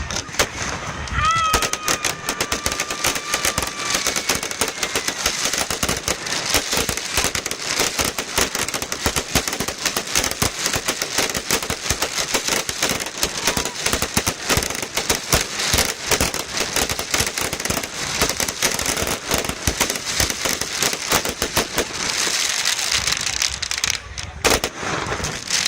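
Aerial fireworks going off in a rapid, continuous barrage of bangs and crackling, with a drawn-out falling whistle in the first few seconds and a short lull near the end.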